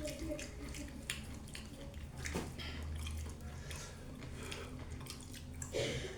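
Wet eating sounds close to the microphone: chewing and scattered lip smacks while eating fufu with soup, with a short voiced sound near the end.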